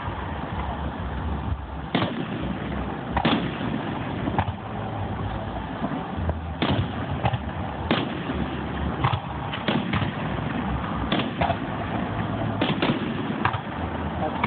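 Fireworks going off: many sharp bangs at irregular intervals, coming more closely together in the second half, over a steady low rumble.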